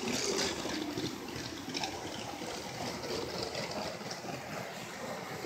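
Steady background noise of a busy exhibit hall, with faint distant chatter and a few light clicks.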